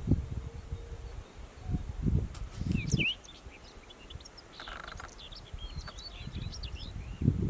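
Whinchat singing: two short phrases of quick, varied high notes, the first about two seconds in and the second around five seconds in. Gusts of wind rumble on the microphone in the first few seconds.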